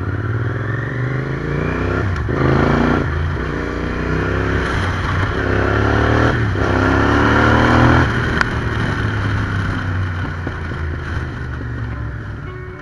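Yamaha TDM 900 parallel-twin engine accelerating through several gears, its pitch climbing and dropping back at each upshift. After about eight seconds it eases off to a steadier, slowly falling run.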